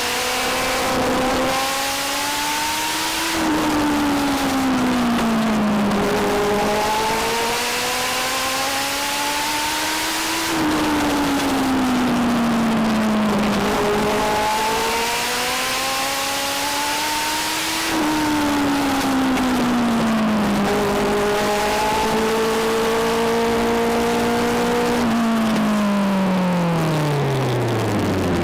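A Legend car's motorcycle-derived four-cylinder engine on track. It revs up along each straight and falls in pitch as the driver lifts for each turn, repeating about every seven to eight seconds. Near the end it holds steady, then winds down to a low pitch as the car slows.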